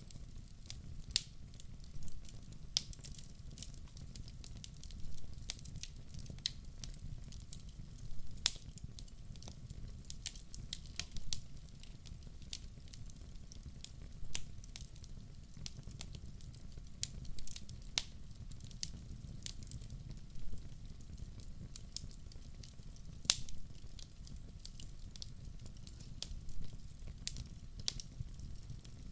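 Fireplace fire crackling: irregular sharp pops and snaps, a few louder ones scattered through, over a steady low rumble of the flames.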